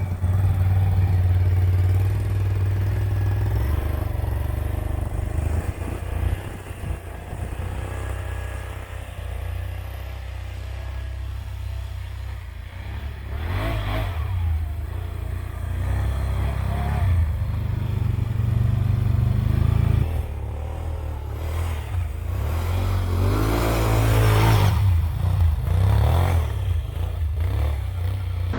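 The 2021 Can-Am Outlander 850 XMR ATV's V-twin engine running steadily, revved up and down a couple of times, about halfway through and near the end.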